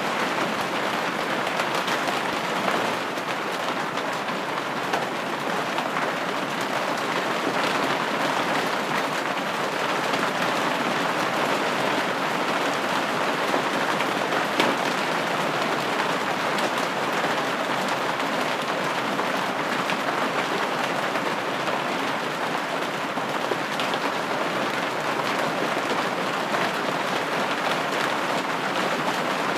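Steady rain pattering on a window pane, an even hiss of many drops with occasional slightly louder single taps.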